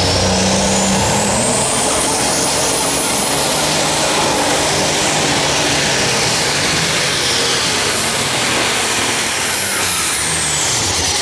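Unlimited Super Stock pulling tractor's turbocharged diesel engine running flat out under load. A high turbo whine climbs over the first few seconds, holds, then falls about ten seconds in as the engine comes off power.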